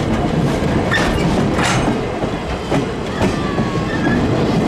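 Passenger coaches of a train rolling past close by, their wheels clicking over the rail joints over a steady rumble, with a faint wheel squeal in the second half.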